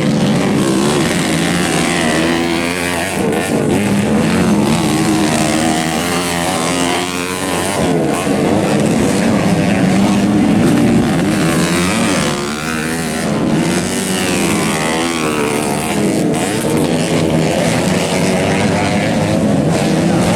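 Dirt bike engines running hard, their pitch repeatedly rising and falling as the throttle is opened and closed.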